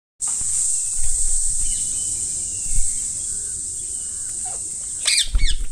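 A steady, high-pitched insect drone, with a few harsh parrot squawks about five seconds in.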